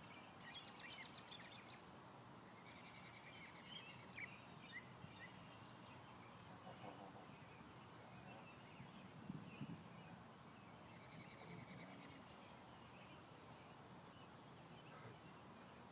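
Faint small-bird chirps and rapid trills, heard in three short bouts over a quiet background, with a few faint low knocks about nine seconds in.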